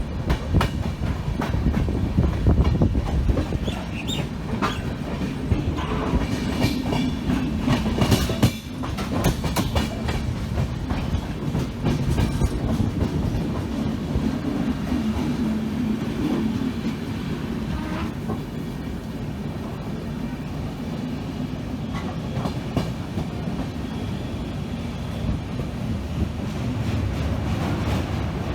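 Indian passenger train running along the track: a steady low rumble with the wheels clacking over the rail joints, the clacks most frequent in the first ten seconds or so.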